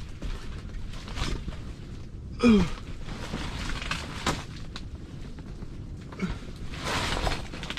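Gusting wind rumbling on the microphone, with scattered knocks and a noisier stretch near the end, as an ice-fishing shelter is blown about on bare ice. A man's short falling groan about two and a half seconds in.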